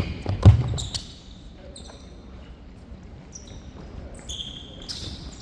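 A korfball bouncing on an indoor sports hall floor: two thuds in the first half second, the louder one about half a second in. Short high squeaks of shoes on the court come and go, several of them near the end.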